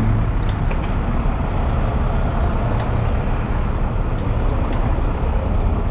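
Steady road traffic noise with a low engine rumble, heard from an electric bicycle riding in dense traffic close behind a trailer truck.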